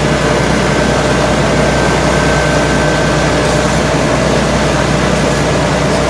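Engine running steadily at a constant speed through its newly fitted exhaust, with a low hum and a faint steady whine above it.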